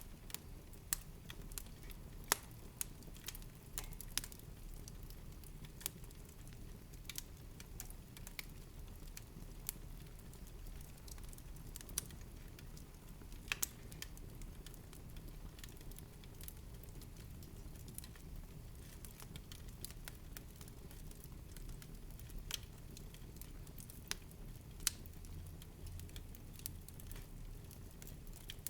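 Wood fire in a fireplace crackling, with sharp, irregular pops and snaps over a low, steady rumble.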